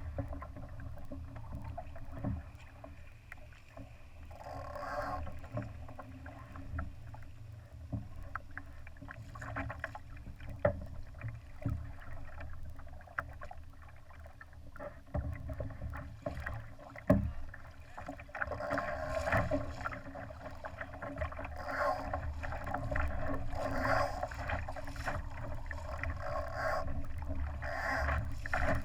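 Water splashing and slapping against the hull of a Laser sailing dinghy under way, over a steady low rumble, with scattered knocks. The splashing grows busier in the second half.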